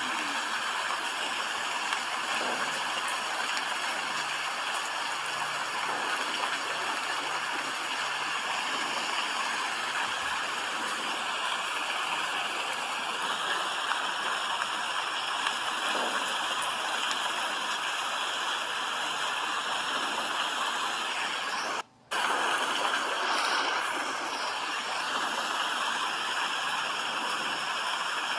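Steady rain, an even hiss of falling water, that cuts out for a split second about three-quarters of the way through before carrying on.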